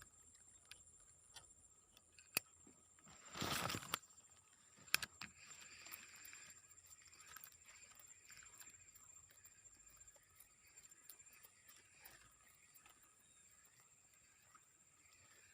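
Faint outdoor ambience with a steady high-pitched hum throughout, a brief noisy rustle about three and a half seconds in, and a few sharp clicks.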